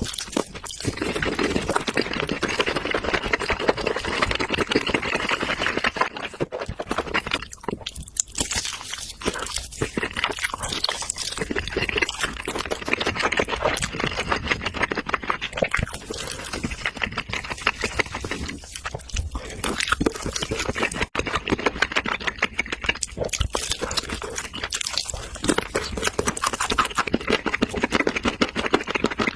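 Close-miked eating: biting and chewing steak and BBQ ribs, a dense run of fine crunchy clicks.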